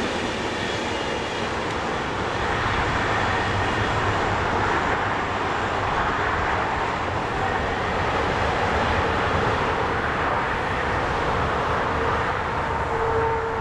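Freight train of tank wagons rolling past on the rails and drawing away, with a steady rushing noise.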